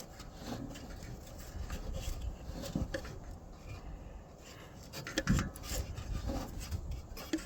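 Irregular rubbing and scraping handling noise with a few light knocks, the clearest about three seconds and five seconds in.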